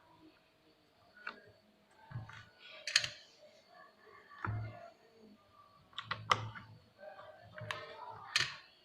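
Irregular clicks and knocks of plastic parts being handled, with a few dull thuds, as the induction cooker is put back together after repair.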